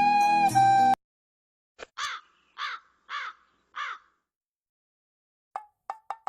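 A crow cawing four times, evenly spaced, as a stock sound effect. Before it, a flute phrase cuts off suddenly about a second in, and near the end a quick run of hollow knocks begins and speeds up.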